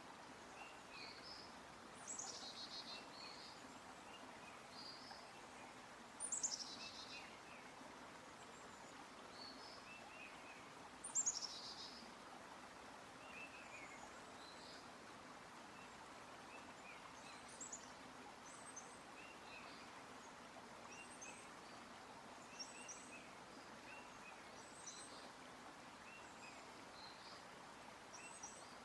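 Faint forest ambience of small birds chirping again and again, with three louder downward-sweeping calls about two, six and eleven seconds in, over a faint steady hiss.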